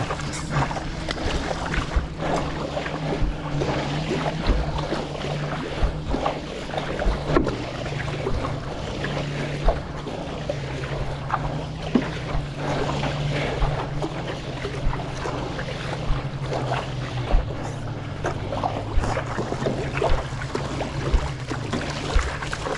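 Water splashing and sloshing around a stand-up paddleboard as it is paddled, with many short splashes, over a steady low hum.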